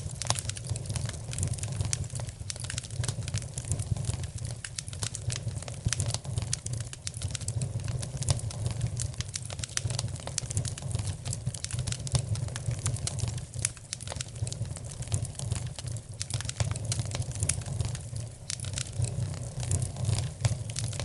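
Wood fire crackling in a fireplace: a dense, irregular stream of sharp pops and snaps over a steady low rumble.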